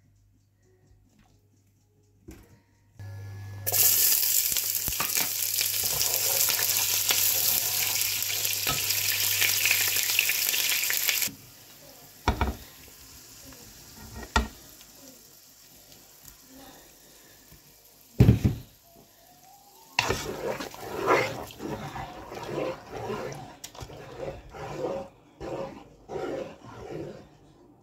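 Onions sizzling loudly in hot oil in a pot, cutting off abruptly after about eight seconds. A quieter stretch follows with a few sharp knocks. Near the end, a wooden spoon stirs the thick stew base in the pot in quick, rhythmic strokes, about two a second.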